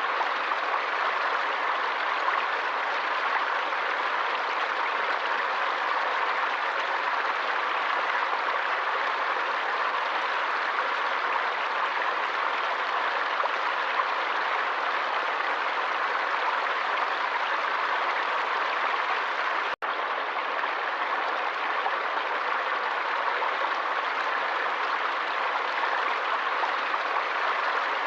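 Forest stream water rushing and splashing steadily, with a momentary dropout about twenty seconds in.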